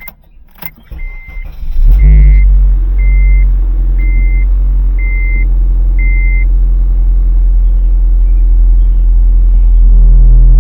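Honda car engine starting about two seconds in, then running at a steady idle, with the idle note stepping up slightly near the end. A warning chime beeps about once a second, six times, over the start.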